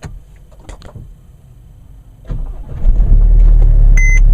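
2014 Mercedes-Benz GLK 250 BlueTec's four-cylinder diesel engine cold-starting at 23°F. A few faint clicks come first. About two seconds in, the starter cranks briefly and the engine catches, settling into a loud, steady low running. Near the end a warning chime begins beeping in a quick, regular series.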